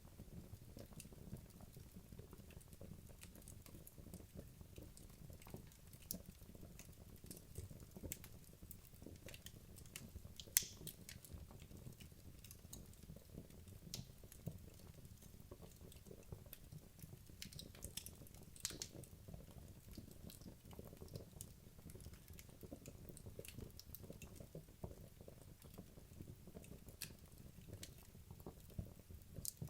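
Wood logs burning in a fireplace: a faint, low, steady flame rumble under irregular crackles and small pops. Two louder, sharper pops stand out, about ten seconds in and again just under twenty seconds in.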